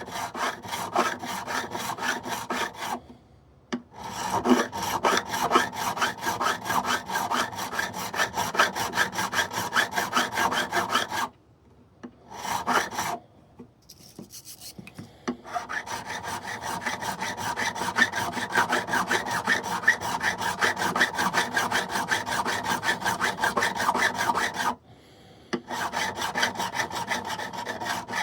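Frets of a Martin D16 acoustic guitar being dressed with quick, even back-and-forth strokes of an abrasive tool, a dry rubbing rasp. The strokes stop briefly about three seconds in, for a few seconds around the middle, and again near the end.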